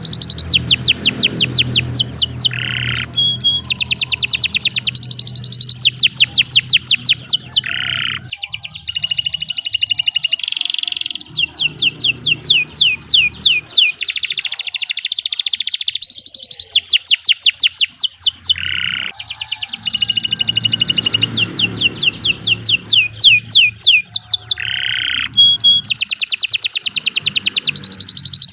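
Domestic canary singing a long, continuous song: fast trills of quickly repeated sweeping notes, run after run, separated by short gaps and a few brief lower buzzy notes.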